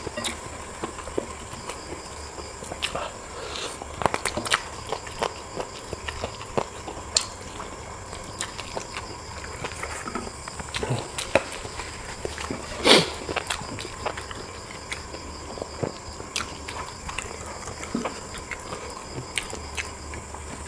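Close-up eating sounds: chewing and biting, with many scattered small clicks and wet smacks, and one louder short sound about 13 seconds in.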